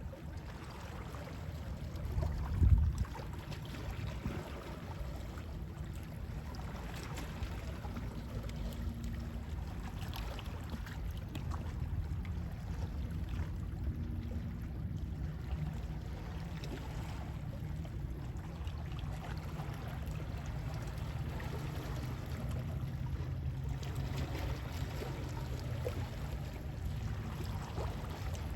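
Calm sea waves washing with sea wind, a steady low rumble under a soft wash. A brief louder thump about three seconds in.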